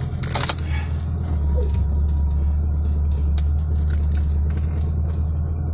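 Vehicle engine running, heard from inside the cab as a steady low drone that grows stronger about a second in. A few sharp clicks and rattles come near the start.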